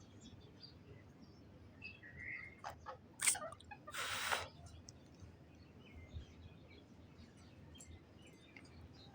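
Parrot calling: scattered short chirps, then a sharp call about three seconds in, followed at once by a longer, noisier squawk of about half a second.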